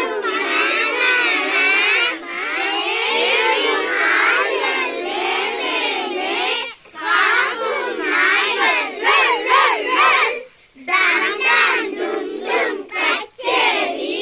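A group of children calling out together, many high voices overlapping in loud, wavering cries that sound like imitations of bird calls rather than words. There are short breaks about seven and ten seconds in.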